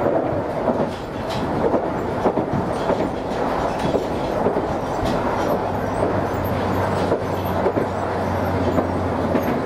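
Chikuho Electric Railway train running along the line, heard from inside the car: a steady rolling rumble with wheel clicks now and then. A low steady hum joins about halfway through.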